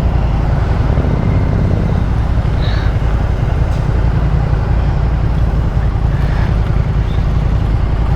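Motorcycle engine running steadily while riding, with wind noise rushing over the rider's microphone.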